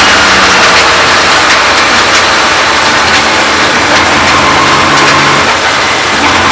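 Track car's engine running loud and steady amid heavy road and wind noise, its pitch shifting slightly.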